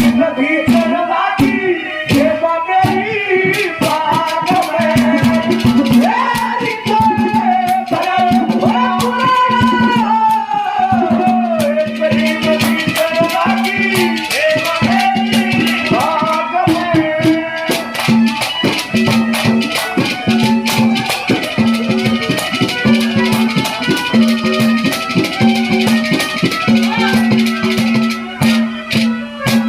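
Live Haryanvi ragni music: a gliding melody line over fast, dense rattling percussion and a pulsing low note, the rattling growing busier in the second half.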